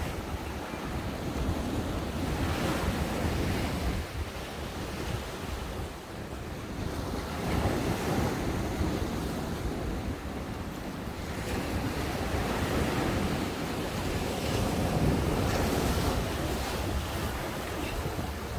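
Ocean waves breaking and washing onto a beach, in repeated swells every few seconds, with wind buffeting the microphone as a low rumble.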